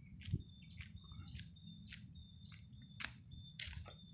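Small birds chirping repeatedly, about two short high chirps a second, faint, over a low rumble with a few soft thumps of footsteps.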